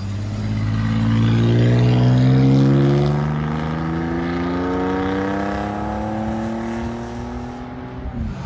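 Ford Ranger 3.0-litre V6 with straight-piped exhaust through five catalytic converters, accelerating hard: the engine note climbs steadily for about eight seconds, then drops away sharply near the end. The converters keep the straight pipe subdued.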